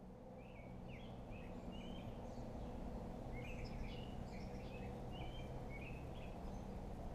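Small birds chirping in short, repeated phrases over a steady low background hum, the sound fading in at the start.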